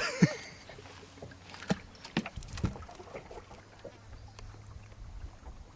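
Scattered light knocks and clicks of handling gear and a fish in a small fishing boat, with a faint steady low hum coming in near the end.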